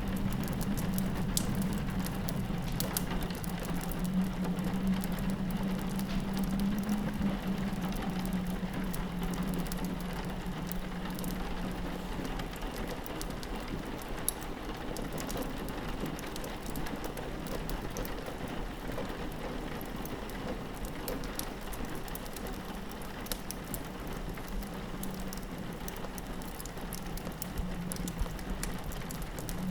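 Steady rain pattering on a window, mixed with a crackling wood fire whose small pops are scattered throughout, over a low steady drone that fades about twelve seconds in.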